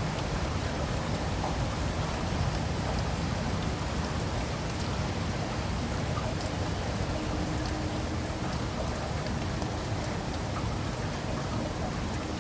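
Rain falling steadily on leaves and pavement, an even hiss with individual drops ticking sharply throughout.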